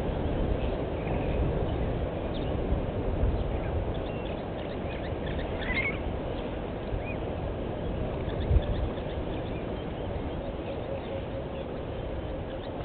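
Outdoor bush ambience: a steady low rumbling noise with scattered short bird chirps, most of them in the first half. A single brief knock comes about eight and a half seconds in.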